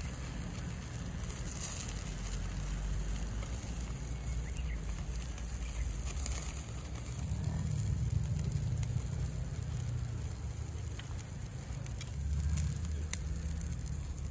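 Small wood fire burning, with scattered sharp crackles over a steady low rumble.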